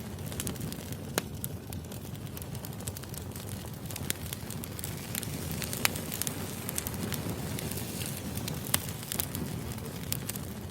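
Wood fire burning: a steady low rumble of flames with scattered sharp crackles and pops from the burning logs, the loudest pops about six and nine seconds in.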